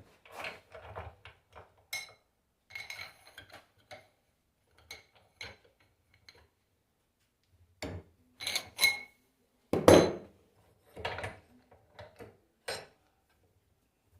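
Irregular metal clinks and knocks of tools and alternator parts being handled while the alternator is dismantled, with the loudest knock about ten seconds in.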